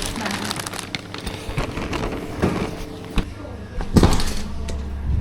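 Indistinct voices under a busy background of knocks, clicks and rustling handling noise, with a louder thump about four seconds in followed by a low rumble.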